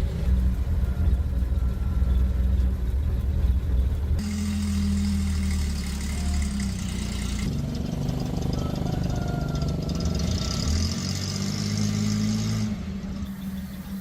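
Small petrol engines running, idling and revving, in several short clips that change abruptly about every three to five seconds.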